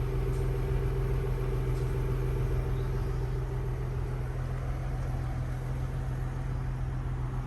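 Steady low mechanical hum with constant tones, unchanging throughout.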